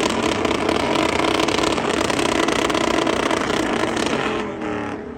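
Vehicle engines running amid a dense, loud wash of noise that fades near the end.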